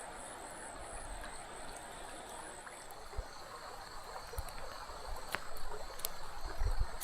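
River water flowing steadily, with a faint high insect drone over it. A few light clicks sound in the second half, and low thumps come near the end.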